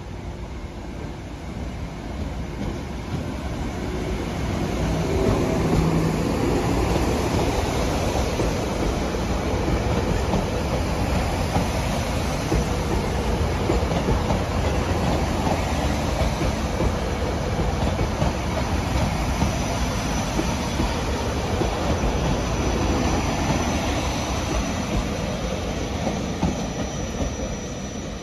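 SEPTA Silverliner IV electric multiple-unit commuter train running past along the platform, its wheels on the rails. It grows louder over the first few seconds as it comes up, holds steady while the cars pass, and eases near the end.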